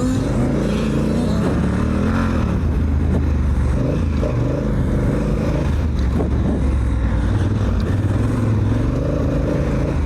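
Honda Africa Twin's parallel-twin engine being ridden hard, its pitch rising and falling over and over with the throttle.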